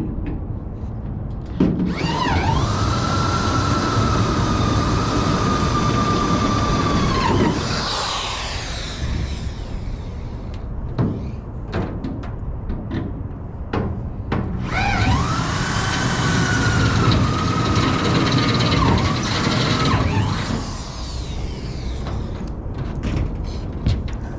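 Power drill boring a 3/8-inch hole through a truck bed, in two runs of about six seconds each. In each run the motor whine rises as it spins up, holds steady while cutting, then falls away as the trigger is released; there are a few short knocks in the pause between the runs.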